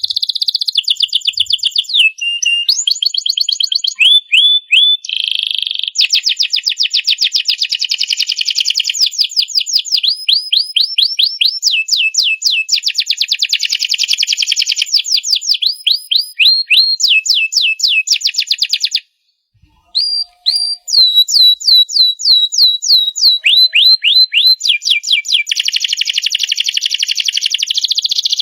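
Domestic canary singing a long, continuous song of fast trills and rapidly repeated whistled notes, with a short break about two-thirds of the way through.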